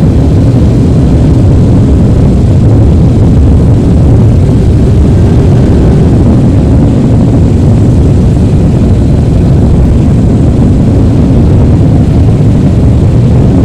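Low, steady jet-engine rumble of a Boeing 777-300ER's GE90 turbofans as the airliner climbs out after take-off.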